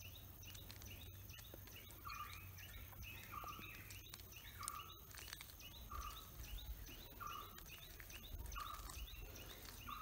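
A bird chirps the same short call over and over, about once a second, faint against low outdoor rumble. A few soft clicks come from a plastic Rubik's cube as its faces are turned.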